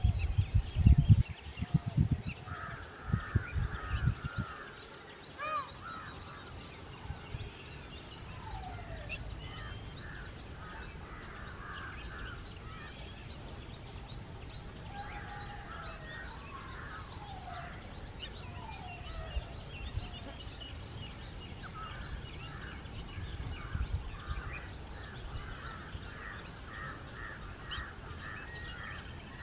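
Birds calling and chattering repeatedly in short runs of harsh notes, with some brief falling notes. Loud low thumping rumble on the microphone in the first few seconds.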